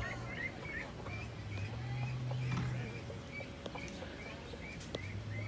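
A bird chirping over and over, short hooked chirps two or three a second, over a low hum that comes and goes.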